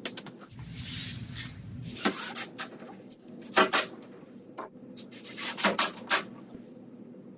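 Interior doors being swung and handled, giving clusters of sharp knocks and clicks about two seconds in, at three and a half seconds, and again near six seconds.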